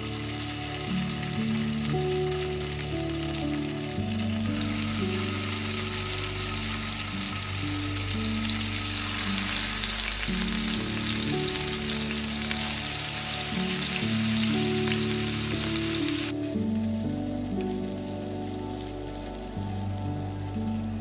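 Paneer slabs sizzling as they shallow-fry in hot oil in a nonstick pan, over background music. The sizzle suddenly becomes much quieter about three-quarters of the way through.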